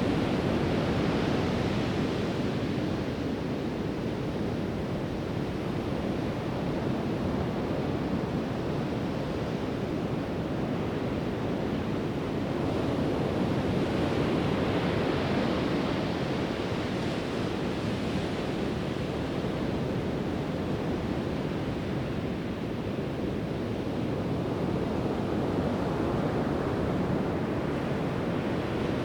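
Pacific Ocean surf: waves breaking and washing up the beach in a continuous rush that swells and eases every several seconds.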